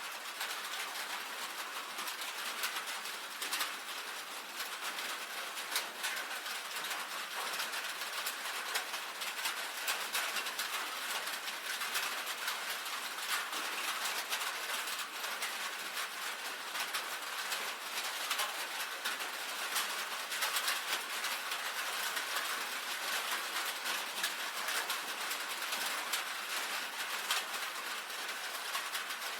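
Rain falling on a tin roof: a steady, dense patter of drops tapping on the metal.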